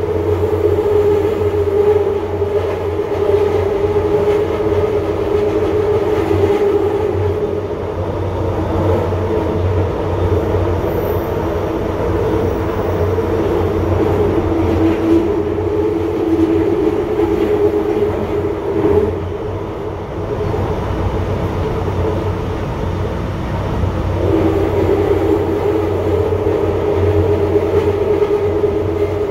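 Running noise heard from inside a moving UTDC ICTS Mark I train car: a steady whine from its linear induction motors over a continuous low rumble. The whine fades for a few seconds about two-thirds through, then returns.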